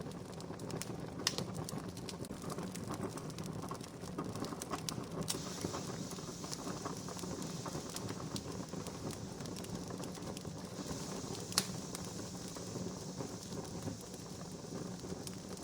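Wood campfire burning with a steady hiss and constant small crackles, and two louder sharp pops, one about a second in and one near the end.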